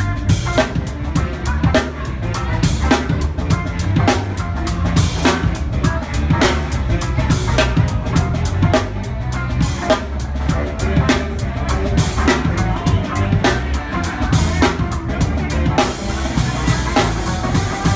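Live rock band playing, with the drum kit loud and close: a steady, regular drum beat over the rest of the band.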